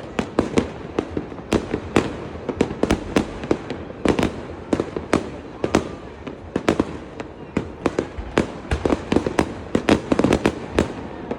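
Fireworks display: a dense, irregular barrage of sharp bangs and pops, several a second.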